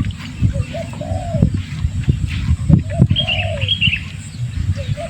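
A dove cooing a repeated phrase, two short notes followed by a longer arched coo, three times, with a brief higher bird chirping in the middle. Irregular low thumps and rumble run underneath and are the loudest part.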